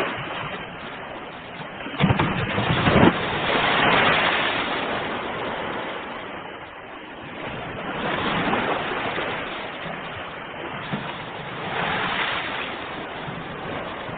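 Ocean waves breaking on a shore, the surf swelling and washing back about every four seconds, with a rougher crash about two to three seconds in.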